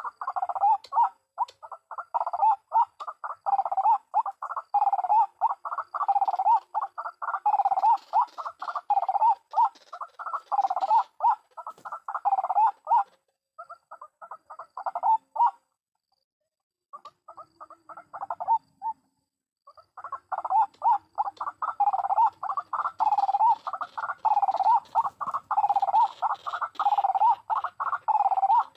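White-breasted waterhen's loud repeated 'kru-ak' calls in a rapid, continuous series. It breaks off for a few seconds about halfway through, then starts up again.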